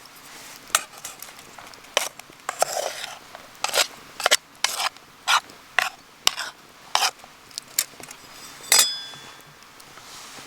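A metal utensil scraping and clinking against metal cookware in a run of short, irregular strokes, as food is stirred. One stroke near the end rings briefly.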